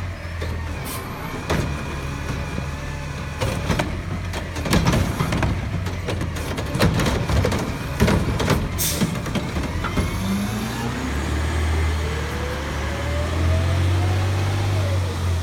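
Garbage truck's diesel engine running, with a series of sharp clanks and bangs in the middle. In the last few seconds the engine note rises steadily in pitch and gets louder.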